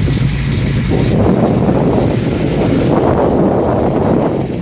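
Wind buffeting the microphone in a loud, gusting rush from about a second in, over the low running of car engines nearby.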